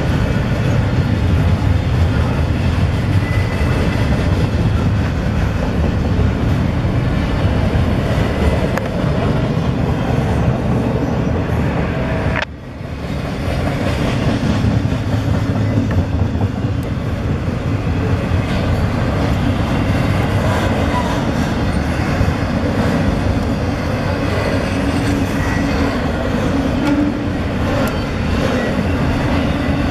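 Double-stack intermodal container train rolling past, a steady loud running noise of freight car wheels on the rails. The noise dips briefly about halfway through, then carries on.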